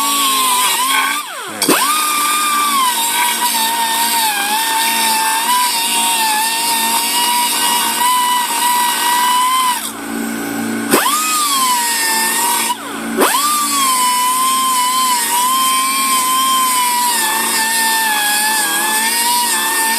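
Air-powered angle die grinder running free with a high-pitched whine that wavers slightly in pitch. It is let off briefly three times, about a second in, at about ten seconds and at about thirteen seconds, and each time the whine drops away and then spins back up.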